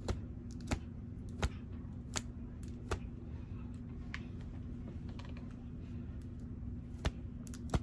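Light, sharp clicks and taps from handling small items and packaging: four evenly spaced ones in the first three seconds, then two more near the end, over a steady low hum.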